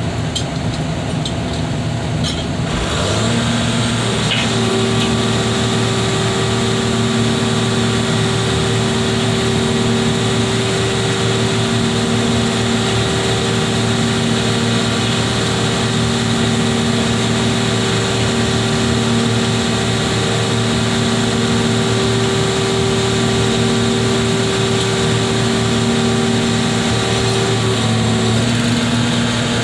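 Heavy diesel machinery running steadily under load. A few seconds in, a steady whine comes in over the engine and holds until near the end, over a lower tone that pulses evenly.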